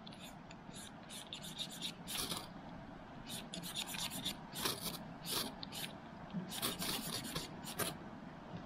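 A series of short, irregular scraping strokes, uneven in spacing and loudness.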